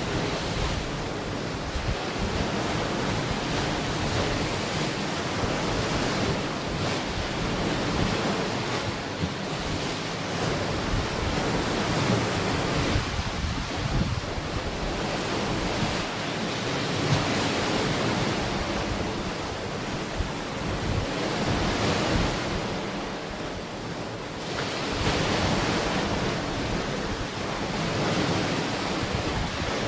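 Ocean waves breaking and washing onto a beach in a steady surf, rising and falling every few seconds, with wind rumbling on the microphone.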